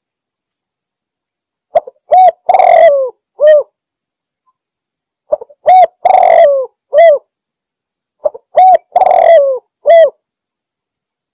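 Spotted dove (tekukur) cooing its lure call. Three phrases come about every three seconds, each a couple of short coos around one longer, drawn-out coo that falls at its end.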